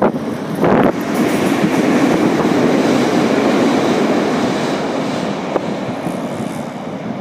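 Passing train, a steady loud rumble that fades slightly toward the end, with a short loud burst about a second in.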